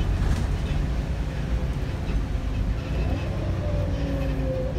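Volvo B7RLE bus on the move, heard on board: its 7-litre six-cylinder diesel and the road make a deep rumble, with rattling from the worn bodywork. A faint whine rises in pitch from about three seconds in.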